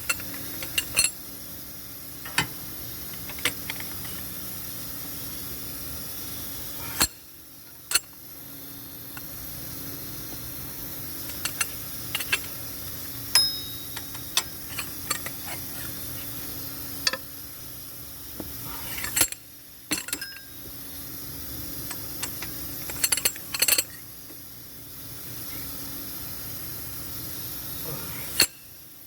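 Irregular sharp metallic clinks and taps of hand tools and metal engine parts being handled during engine reassembly, over a steady background hum.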